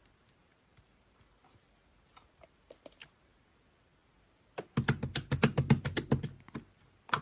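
Slime being played with by hand: scattered faint sticky clicks, then from about four and a half seconds a quick, louder run of wet clicks and pops for about two seconds.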